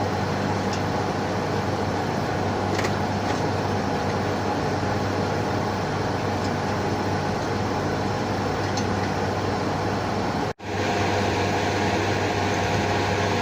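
Plant-room machinery running steadily, a constant hum with a hiss over it; the sound drops out for an instant about ten and a half seconds in.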